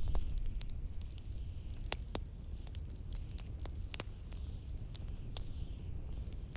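Fireplace crackling: scattered sharp pops and snaps over a steady deep rumble of wind, with a faint hiss.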